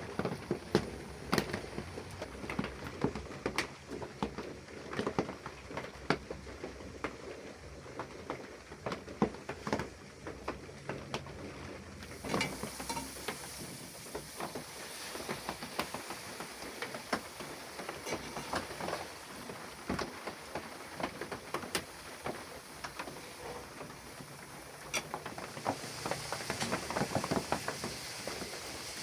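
Cooking sounds: irregular clicks and knocks of kitchen utensils and food being handled, over a steady hiss that turns brighter about twelve seconds in.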